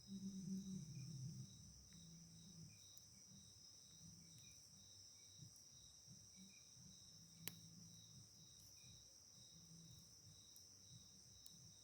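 Crickets chirping at night: a steady high trill with a pulsed chirp about three times a second. A faint low hum is stronger in the first second or so, and there is one sharp click about seven and a half seconds in.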